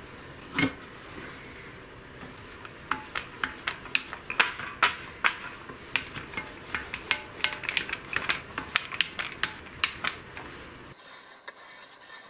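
A metal reference surface rubbed back and forth over the vertical dovetail ways of a Schaublin SV-12 milling machine column to spot them with marking paint: a run of short, quick scraping strokes, about three a second, after a single knock near the start.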